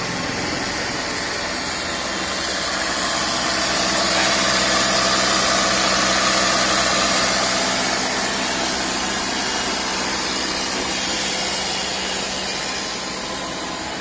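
Tata Safari's engine idling steadily during engine decarbonisation, with a carbon-cleaning machine's hose fed into the engine bay.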